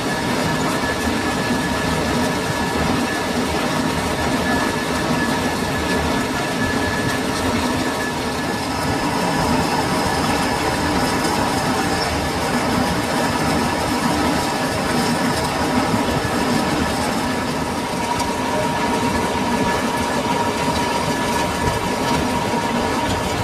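Metal lathe running steadily while machining a steel silage-machine head roller, with a thin steady whine over the cutting noise.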